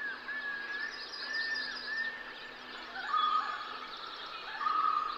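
Birds calling over a faint outdoor background: a short arched whistle repeated about every half second, then two longer steady whistled notes, one about three seconds in and one near the end.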